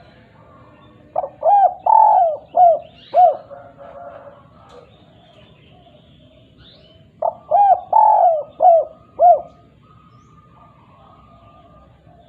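Spotted dove (derkuku) singing its 'kuk 2' cooing song: two phrases of five notes, short-short-long-short-short, the first about a second in and the second about six seconds later.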